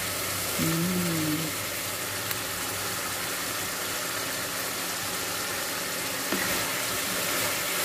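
Pork steak and onion rings sizzling steadily in a frying pan in their soy-and-lemon sauce, nearly done, over a steady low hum. A short hum of a voice comes about a second in.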